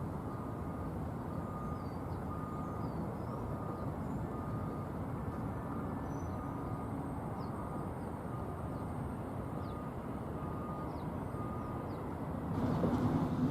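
Steady rumble of distant engine noise, with faint short beeps repeating about once a second and a few faint high chirps. A louder engine sound comes in about a second before the end.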